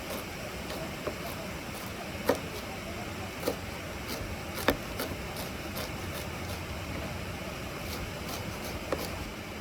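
Steady rushing noise of a nearby waterfall, with a handful of sharp, irregularly spaced taps over it.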